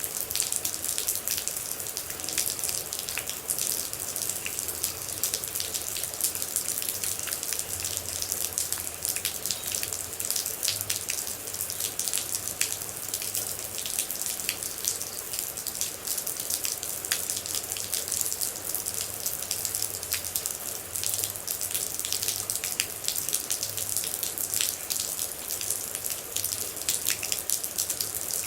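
Steady rain falling, with a dense run of small, sharp droplet hits over an even hiss.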